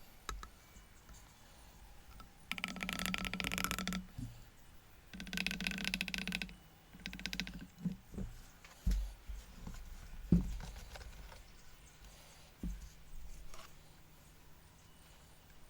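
Bench work on a scooter rear shock absorber while it is refilled with oil: three short bursts of rattling, scraping noise about two and a half, five and seven seconds in, then a few dull knocks.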